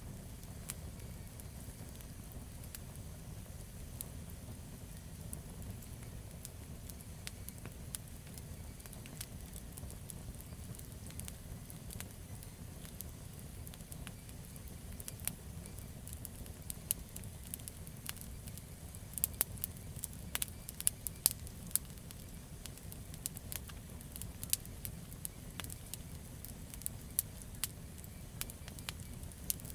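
Campfire of burning wood crackling: a steady low rumble of flame under scattered sharp pops and snaps, which come thickest and loudest about two thirds of the way through.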